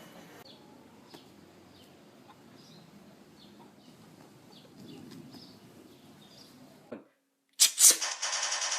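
Faint background with a few soft, short chirps. After an abrupt cut, two loud blasts come a fraction of a second apart, followed by a loud, fast, even rattle.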